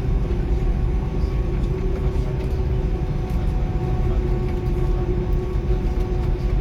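Cabin noise inside an Airbus A310: the jet engines droning steadily over a heavy low rumble, with a few faint rattles.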